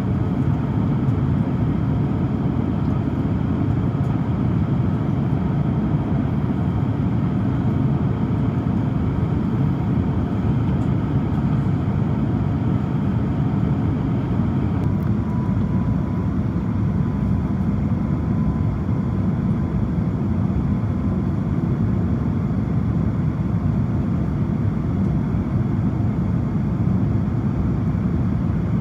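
Steady cabin noise inside an Airbus A350-900 descending to land: a low rumble of airflow and engine noise from its Rolls-Royce Trent XWB engines, with a faint thin tone appearing briefly in the middle.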